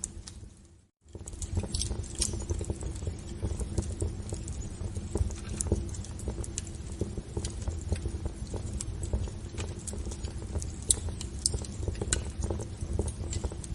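Wood fire burning in a fireplace, crackling and popping irregularly over a low rumble and a faint steady hum. The sound drops out almost completely for a moment about a second in, then carries on.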